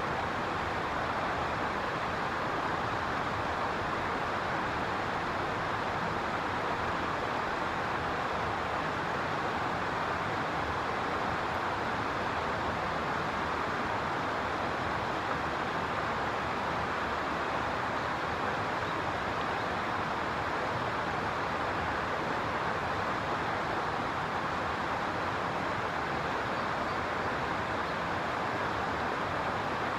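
Steady, even rushing noise with no distinct calls or knocks and no change in level.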